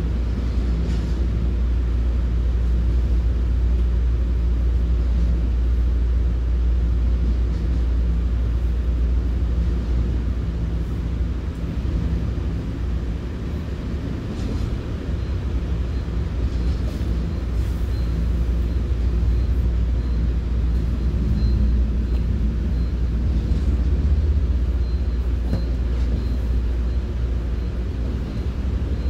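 Commuter train heard from inside the passenger coach: a steady, low rumble of the running train, with a faint high tone in the second half.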